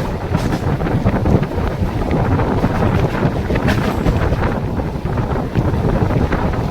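Mumbai suburban local train running, heard from on board: a loud, steady rumble with scattered clicks and rattles from the wheels and carriage, and wind buffeting the microphone.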